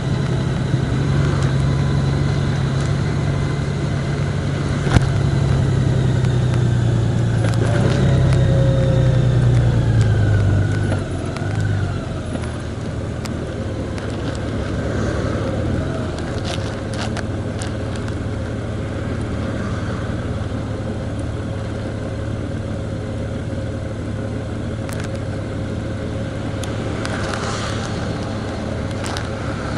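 A motor vehicle's engine and road noise while driving, a steady drone. About eleven seconds in the engine note drops and the sound becomes quieter, as when easing off or slowing, then runs on evenly.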